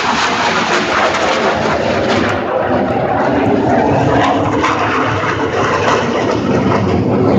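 Loud jet roar with a ragged crackle from a Blue Angels F/A-18 Hornet flying past. After about two seconds the hiss fades and a deeper rumble carries on as the jet moves away.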